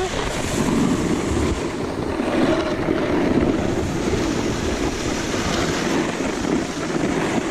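Steady wind rushing and buffeting on the camera's microphone.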